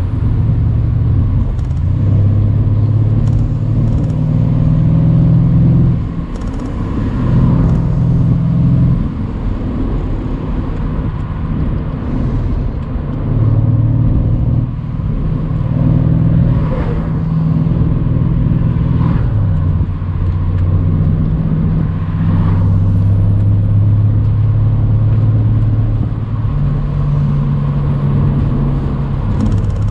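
Mercedes-AMG C63's twin-turbo 4.0-litre V8 pulling a car along a country road, its low drone stepping up and down in pitch several times as the revs change with speed and gears. Road and wind noise from the open top run under it.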